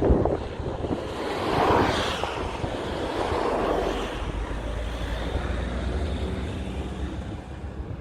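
Wind blowing across the microphone: a steady rushing noise with a low rumble, swelling for a couple of seconds near the start.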